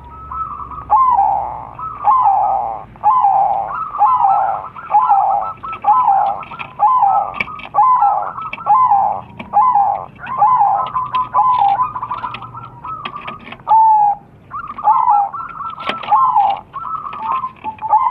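Crossbred perkutut (zebra doves) cooing: a steady run of short falling coos, about one a second, with calls overlapping one another.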